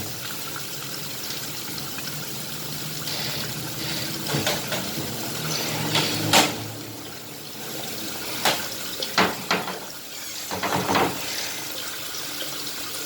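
Tap water running steadily while raw chicken pieces are washed in a vessel, with several sharp knocks and splashes from the handling between about four and eleven seconds in.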